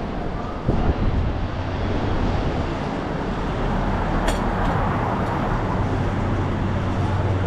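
City street traffic heard from a moving bicycle, with a motor vehicle's low engine hum steady through the second half. A few knocks sound about a second in.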